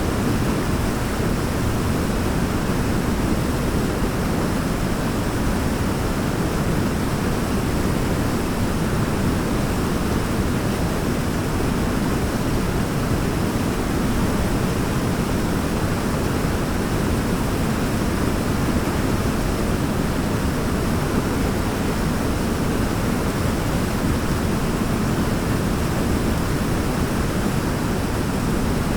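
Forest waterfall: water falling and splashing in a steady, even rush, strongest in the low end, with no change in level.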